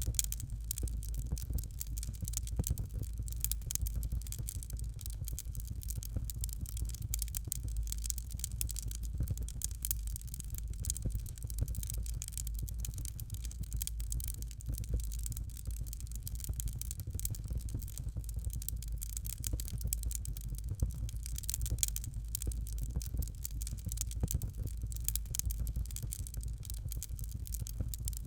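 Fireplace fire crackling: a dense, continuous run of small pops and crackles over a steady low rumble.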